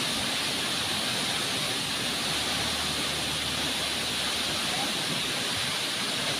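A waterfall's falling water, a steady, unbroken rush.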